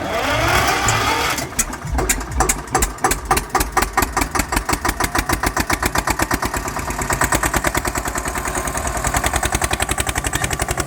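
Tractor diesel engine being started: the starter cranks for about a second and a half, then the engine catches and runs with a steady, even chug.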